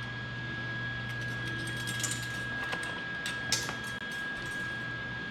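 A few light clicks and taps as a lever is let go and moves against its stop bolt, the sharpest about three and a half seconds in, over a steady low hum and a thin high whine.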